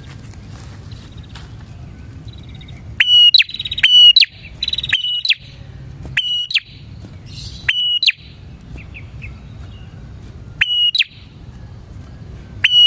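Prenjak (prinia) singing vigorously: a series of about eight loud, sharp whistled notes, each ending in a quick upward flick, repeated at uneven gaps from about three seconds in. A low steady background hum runs underneath.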